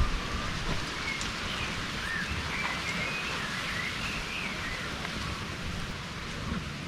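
Birds chirping and whistling in short, varied calls over a steady hiss of outdoor background noise.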